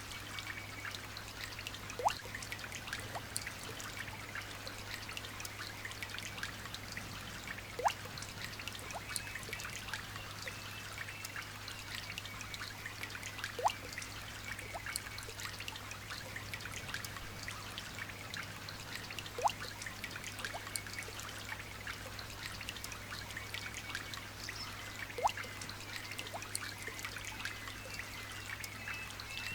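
Light rain dripping and trickling steadily, with many small drops and a louder single drop plinking about every six seconds.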